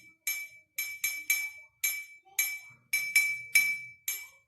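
A spoon tapping a drinking glass in a rhythmic pattern: about ten quick clinks, each ringing at the same high pitch. The tapping stops near the end.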